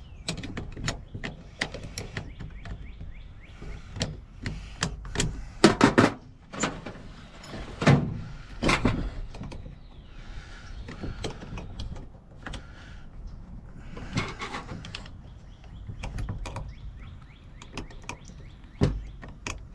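Small metal lock parts and hand tools clicking and knocking irregularly as a mortise lock is worked on, with several louder knocks.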